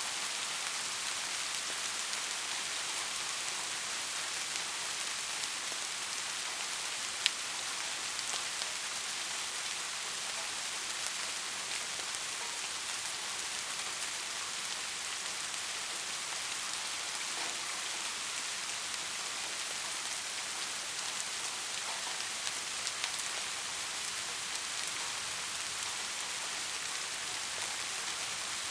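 Steady rain falling, an even hiss of many drops with an occasional louder single drop hitting close by, sharpest about seven seconds in.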